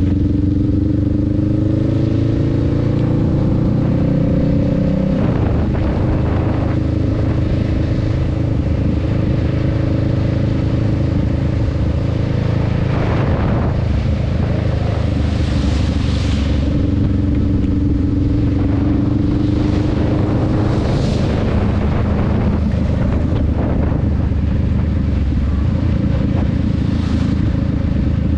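Honda Rebel 500's parallel-twin engine running under way, its pitch rising as the bike accelerates in the first few seconds, dropping about five seconds in, and rising again later. A few brief hissing rushes come and go over the steady low rumble.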